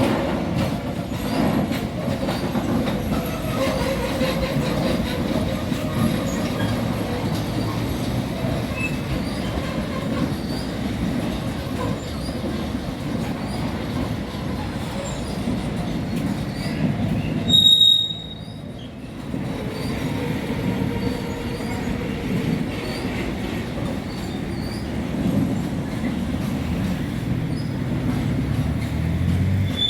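A train running past on the rails with a steady rumble of wheels, and a short high-pitched wheel squeal about 18 seconds in.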